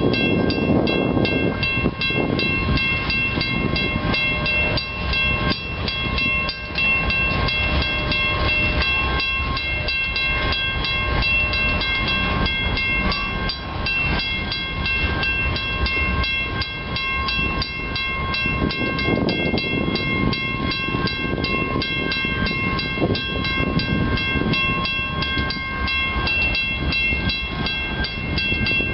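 Freight train of grain hopper cars rolling past a level crossing, a steady rumble of wheels on rail. Over it the crossing bell rings in rapid, even strokes.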